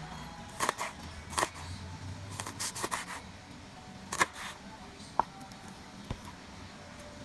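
Irregular sharp clicks and knocks of hard objects being handled, with a quick cluster about halfway through and the loudest knock about four seconds in.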